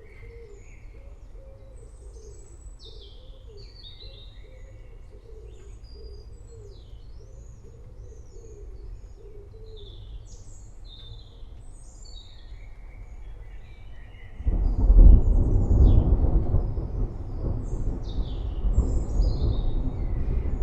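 Forest birds chirping and twittering, with a lower call repeating about one and a half times a second through the first half. About two-thirds of the way in, a loud low rumble of thunder sets in and rolls on to the end.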